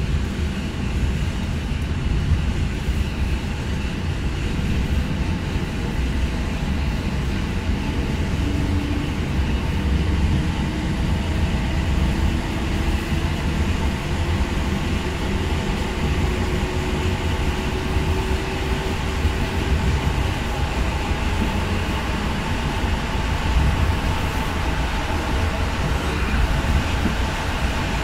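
Regional passenger train running along the line, heard from inside the carriage: a steady rumble of wheels on the rails, with a faint tone rising slowly in pitch through the middle.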